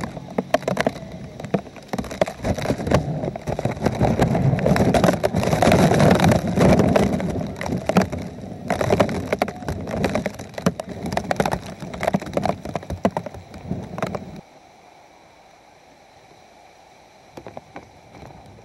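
Hurricane-force wind and rain battering the microphone: a loud, crackling rush with sharp gusts and spatters. It cuts off abruptly about fourteen seconds in, leaving a quiet steady hum with a few faint taps.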